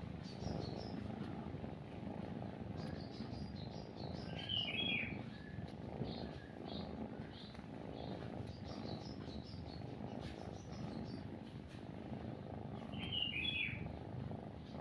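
Cat purring, a steady low rumble, with small birds chirping over it; two louder bird calls come about four seconds in and again near the end.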